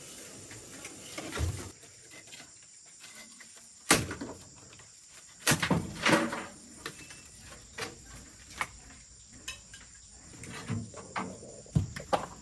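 Irregular knocks and clatter, a few sharp and loud, about four seconds in, twice around six seconds and near the end, with lighter ticks between, over a faint steady high hiss.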